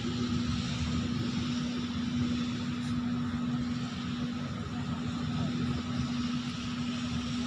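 Steady machinery drone with one constant low hum and a broad noisy wash over it, unchanging throughout.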